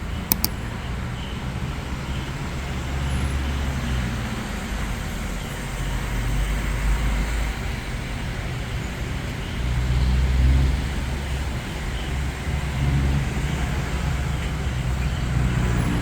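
Motor vehicle running: a low, steady rumble of engine and road noise that swells a little about seven seconds in and most around ten seconds in. Two sharp clicks sound about half a second in.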